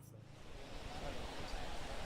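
Steady background noise with faint, indistinct voices, building up just after a sudden cut.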